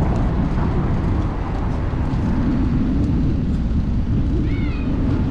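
Steady low rumble of city traffic and street noise. A single short, high chirping call sounds near the end.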